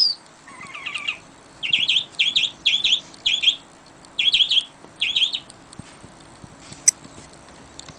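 Songbirds chirping: groups of quick, repeated high chirps in short bursts, then a pause of about two seconds. A single sharp click sounds near the end.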